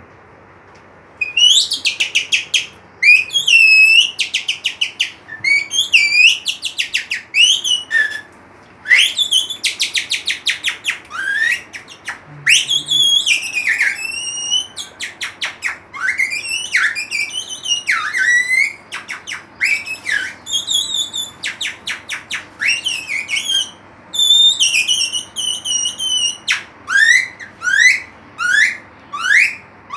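Bird-call imitation made with a cut piece of plastic carrier bag used as a whistle: bursts of rapid trills and chirps with quick downward-sliding whistles, broken by short pauses, starting about a second in.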